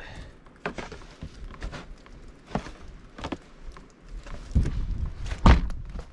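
Boots crunching through deep snow in uneven steps, with a heavier thump about five and a half seconds in.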